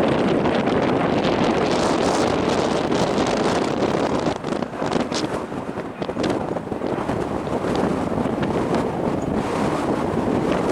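Strong gusty wind buffeting the microphone in a steady rumbling roar, easing slightly for a moment near the middle.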